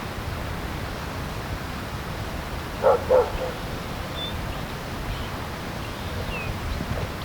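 A dog barks twice in quick succession about three seconds in, over a steady low rumble, with a couple of faint high notes later on.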